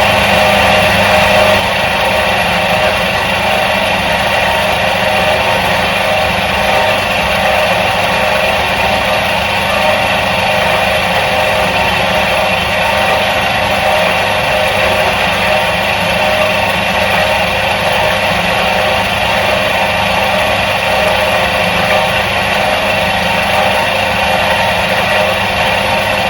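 Electric motor of a 1977 Soviet washing machine running with a steady hum. It drops a little in level about a second and a half in, then holds even.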